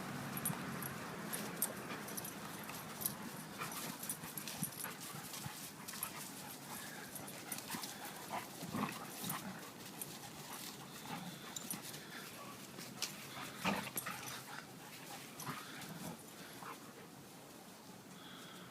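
Two puppies, a German shepherd and a pit bull mix, play-fighting: scattered sharp clicks and scuffles with short whines and yips throughout.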